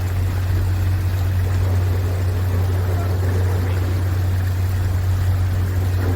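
Steady low mechanical hum, unchanging throughout, over a wash of running, trickling water.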